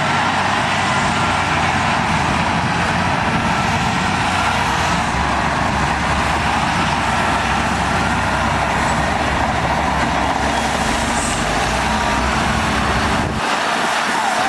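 Heavy earthmoving machinery working, with its diesel engine running steadily under a dense, loud noise. Near the end the deep rumble drops away abruptly.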